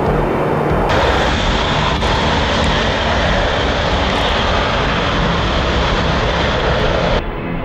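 Aircraft engines running, a loud steady rush with low rumble. The sound changes abruptly about a second in and again near the end.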